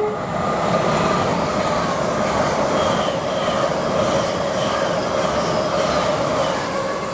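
LNER Class 800 Azuma train going by at the platform: a steady rush of wheels on rail with a faint whine running through it, easing off near the end.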